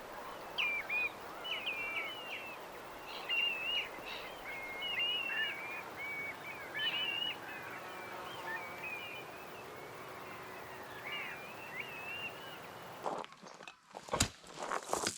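Small songbirds chirping and singing in quick repeated phrases over a steady background hiss. About 13 s in the hiss cuts off and a few sharp knocks follow, the loudest about a second before the end.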